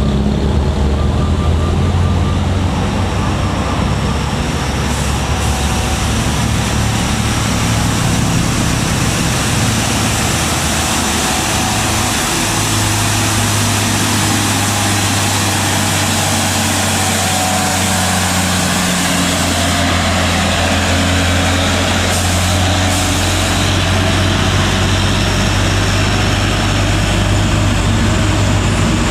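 Heavy diesel truck engine labouring up a steep grade, a steady low drone under loud road and mechanical noise; the engine note shifts about twelve seconds in and again a few seconds later.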